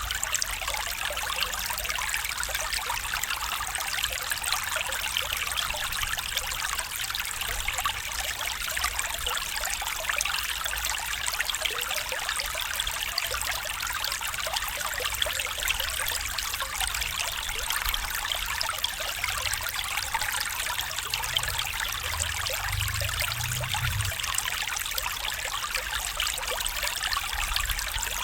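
Small stream trickling and babbling over stones, a steady rushing water sound with a brief low rumble a little past the middle.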